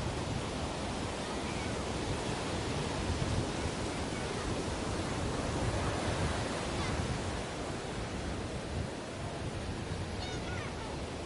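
Ocean waves washing onto a beach, a steady surf that swells gently in the middle, with a brief faint chirp near the end.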